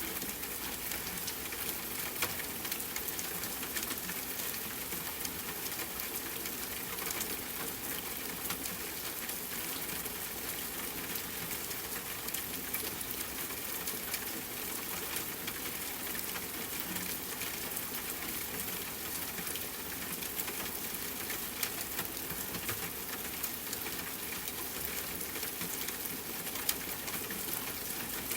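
Steady rain falling together with a crackling campfire: an even hiss sprinkled with small, scattered pops.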